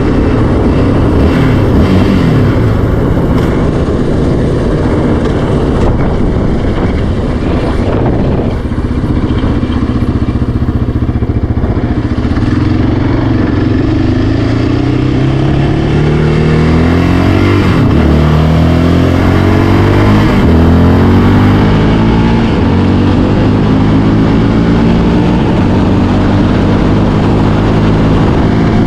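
Yamaha Raptor 700R's single-cylinder four-stroke engine being ridden, the engine note rising and falling with the throttle. Through the middle the pitch climbs steadily, then drops sharply twice close together as it shifts up a gear.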